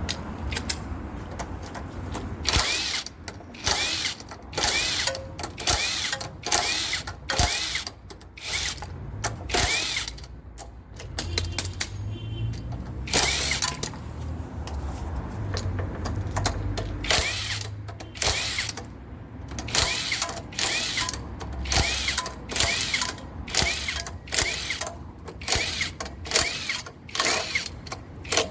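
Hand socket ratchet clicking in repeated short strokes, about one or two a second with a brief pause partway through, as bolts are worked during a hybrid battery swap.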